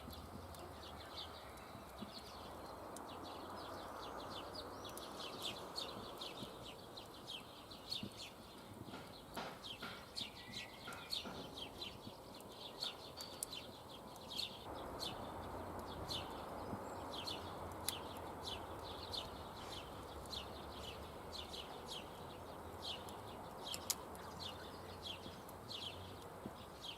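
Wood campfire crackling: many small sharp pops, several a second, over a steady rushing hiss.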